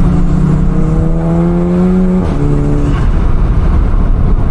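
Audi S3 8P's turbocharged 2.0 TFSI four-cylinder, fitted with an aftermarket downpipe, accelerating with its note rising for about two seconds. A quick S tronic upshift then drops the pitch suddenly, over a heavy low road rumble.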